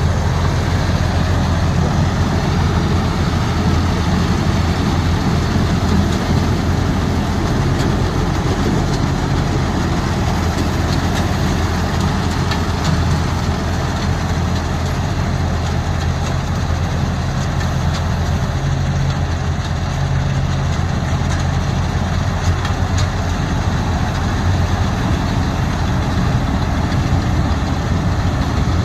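Tractor diesel engine running steadily with a constant low drone.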